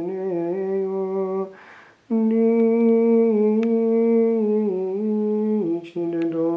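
A solo male voice singing unaccompanied plainchant, in long held notes that step up and down. There is a short pause for breath about one and a half seconds in.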